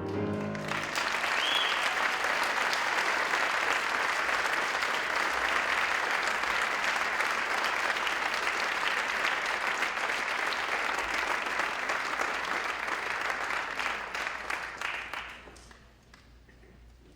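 Audience applauding at a school concert as the last chord of a piece dies away. The clapping fills the hall for about fifteen seconds, then tapers off and stops near the end.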